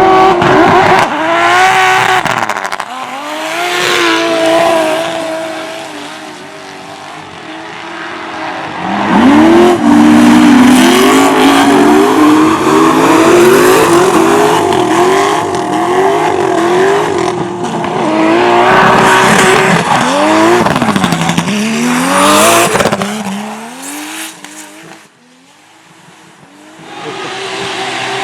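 Drift cars passing close with tyres squealing and engines revving hard. A first pass comes in the opening seconds; from about nine seconds in a longer run follows, the engine pitch rising and dropping again and again under throttle blips. It fades away shortly before the end.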